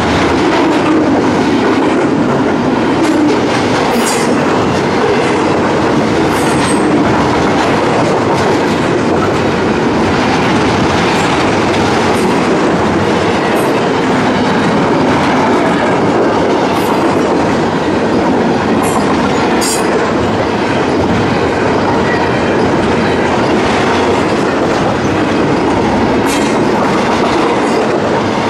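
Freight train cars rolling past on the rails: a loud, steady rumble and rattle of steel wheels over the track, with a few brief high squeals from the wheels.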